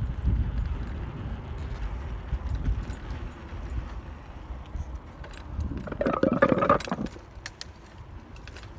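Wind buffeting the microphone of a moving bicycle, easing off gradually. About six seconds in comes a short rattle, followed by a few sharp clicks.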